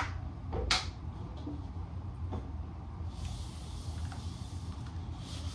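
A steady low hum, with a couple of short sharp sounds in the first second and a soft hissing noise from about halfway that stops, then returns near the end.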